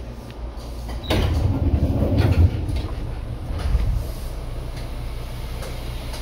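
Seibu 2000 series commuter train running, heard from inside the car as a steady low rumble. About a second in it jumps to a louder rush and rumble for about three seconds, then settles back.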